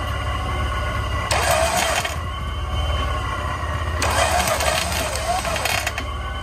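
Supercharged Jeep Wrangler JKU engine idling steadily. Over it come two stretches of brighter noise, about a second in and again at about four seconds, each lasting one to two seconds.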